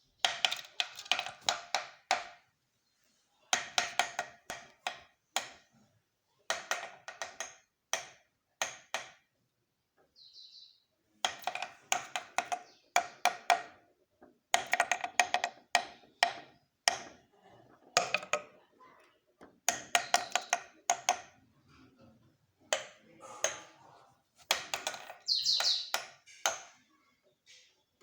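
A woodpecker pecking hard in rapid bursts of knocks, about eight runs of one to three seconds each with short pauses between. A short high bird note sounds twice between the runs.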